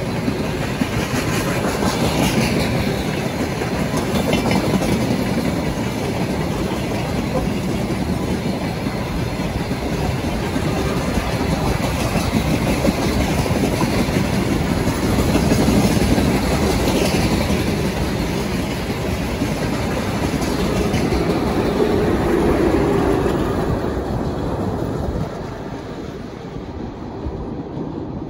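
Steady rumbling noise of a moving vehicle, swelling and easing in loudness and dropping a little near the end.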